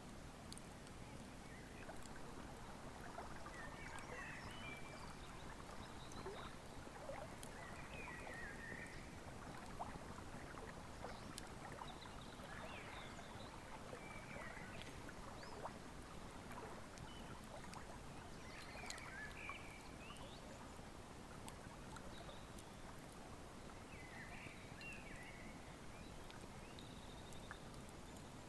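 Wood fire crackling with scattered sharp snaps over the steady rush of a flowing river, while a bird gives short chirps every few seconds.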